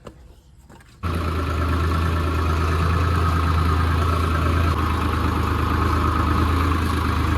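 Swaraj 735 tractor's three-cylinder diesel engine running steadily at an even speed, cutting in abruptly about a second in.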